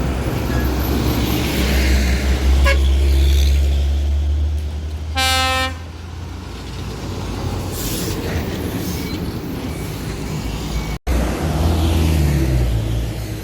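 Heavy truck engine running with a loud low rumble, and one short truck horn blast about five seconds in. After a brief break in the sound near eleven seconds, a truck engine is heard again, its pitch falling.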